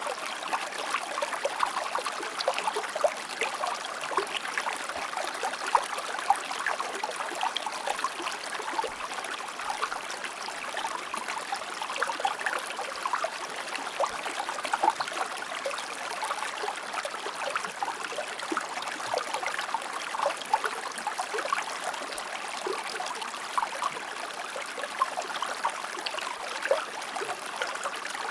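A shallow river or stream flowing steadily over rocks, with a constant babbling wash and small crisp splashes and trickles.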